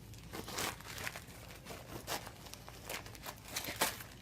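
Wrapping paper crinkling and tearing in short, irregular bursts as a dog pulls at a wrapped present.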